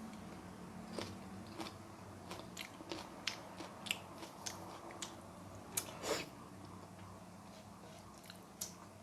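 A person chewing and biting food close to the microphone, mukbang style: soft wet clicks and smacks at an irregular pace, a couple of louder ones about four and six seconds in, over a faint steady low hum.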